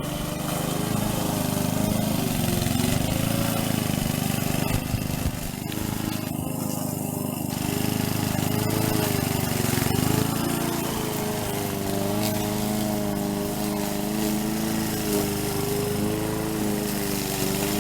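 Petrol lawn mower engine running steadily while cutting grass, its pitch wavering slightly under load.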